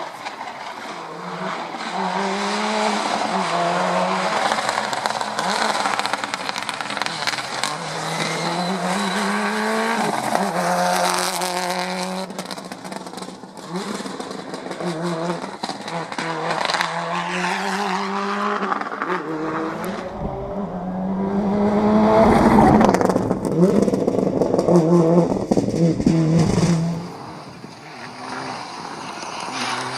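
Rally car engine at full load, its pitch repeatedly rising and dropping as it revs through the gears. It is loudest a little past two-thirds of the way through, then falls away quickly.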